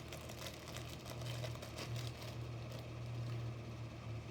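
Faint clicks and rustling from a die-cast toy car being handled, over a steady low hum.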